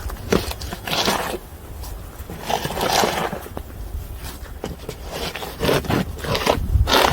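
Irregular scraping and crunching strokes in snow, several over the few seconds, with wind rumbling on the microphone.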